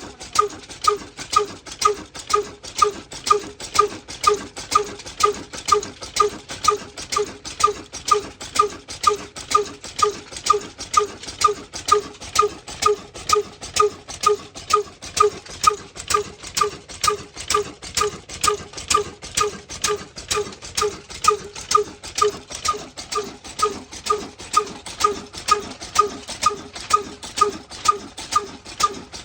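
Diesel engine running slowly and evenly, each combustion beat a sharp knock at about two and a half beats a second.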